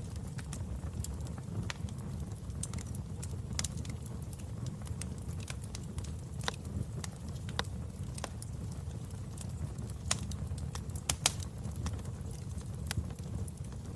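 Wood fire in a fireplace crackling: irregular sharp pops and snaps over a steady low rumble of burning, with the loudest pop about three seconds before the end.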